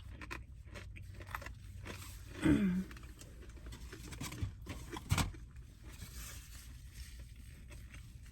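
Quiet eating sounds: small clicks of chewing and mouth noises, with a short vocal sound about two and a half seconds in and a sharper click a little after five seconds.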